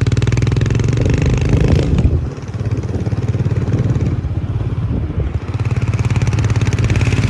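Royal Enfield Himalayan single-cylinder motorcycle engine running while riding. It eases off about two seconds in and picks up again near the end.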